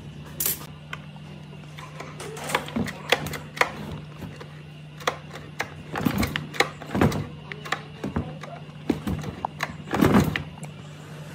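Irregular sharp clicks and knocks, like hard parts being handled or set down, over a steady low hum. The loudest knock comes near the end.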